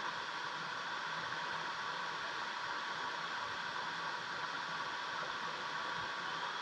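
Steady rushing of a valley stream, an even hiss without breaks.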